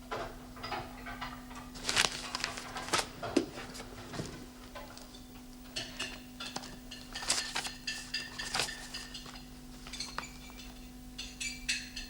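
Dishes and cutlery clinking and clattering in irregular knocks and chinks, over a steady low hum.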